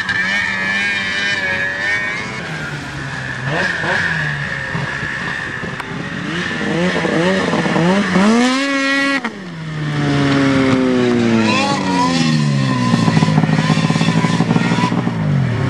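Quad (ATV) engine revving up and down under load. Its pitch climbs to a high peak about nine seconds in, then falls away in long glides.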